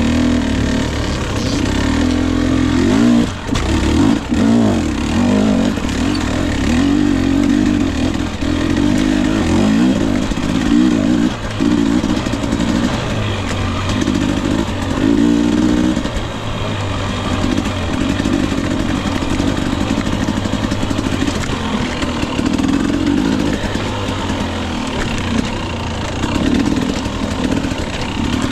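Two-stroke dirt bike engine, a 2021 Husqvarna TE 250i, revving up and down over and over as the throttle is worked on and off while riding, with a couple of sharp knocks a few seconds in.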